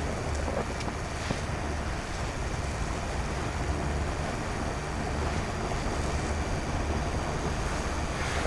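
Steady rushing wind noise with a low rumble from wind buffeting the microphone, and a few faint clicks.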